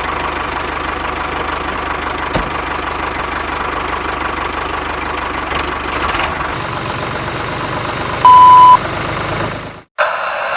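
An engine running steadily. About eight seconds in, a loud, single-pitched beep lasts about half a second, and the running sound cuts off suddenly shortly after.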